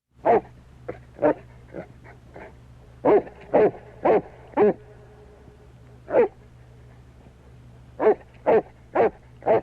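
A dog barking in short, single barks, mostly in quick runs of three or four about half a second apart, with a few softer barks between them. A low steady hum sits underneath.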